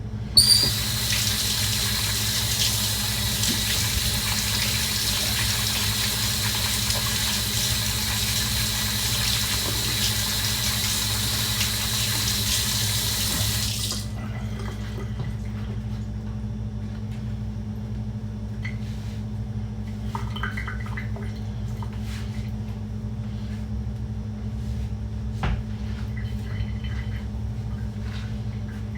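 Kitchen tap turned on with a sharp knock and running in a steady stream for about fourteen seconds, then shut off suddenly. Afterwards there is only a steady low hum and a few faint clicks and clatters.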